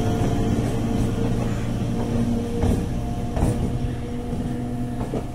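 Indian Railways electric multiple-unit train passing close by: a steady electrical hum under the rumble of the coaches, with a few sharp clicks of wheels over rail joints. The sound fades as the trailing cab goes past.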